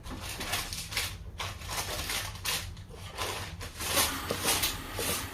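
Plastic shopping bag and packaging rustling and crinkling as items are handled, in irregular bursts that get louder near the end, over a steady low hum.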